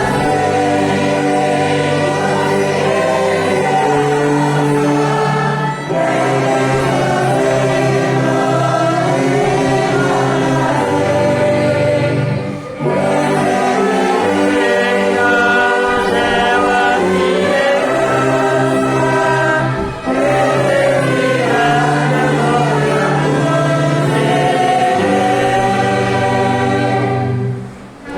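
A congregation and choir singing a hymn together, backed by the rehearsal's orchestra. The singing moves in long held phrases of about six to seven seconds, each ending in a short break.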